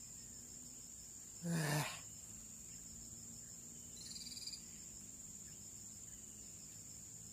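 Steady high-pitched insect drone, crickets or similar, from the surrounding vegetation. A short, louder burst cuts across it about a second and a half in, and a brief faint high chirp follows about four seconds in.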